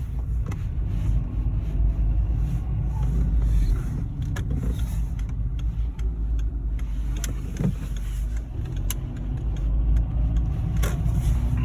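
Seat Ibiza 1.4 automatic driving along, heard from inside the cabin: a steady low rumble of engine and road noise, with a few brief clicks scattered through it.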